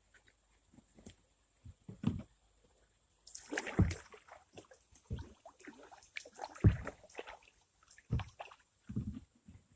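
Kayak being paddled: a handful of irregular paddle strokes sloshing and splashing in the water, with low knocks against the hull.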